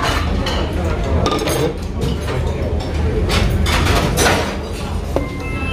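Spoon clinking and scraping against a bowl of soup as red pepper powder is stirred in, with a short ringing clink near the end, over a steady low rumble.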